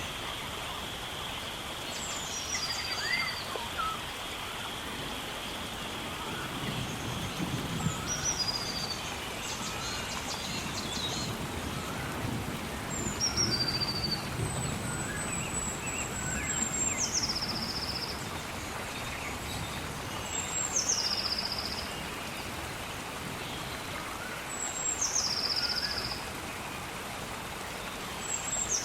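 Steady gentle rain with a songbird repeating a short high song about every four seconds, each one sliding down in steps and ending in a brief trill, while other birds chirp faintly.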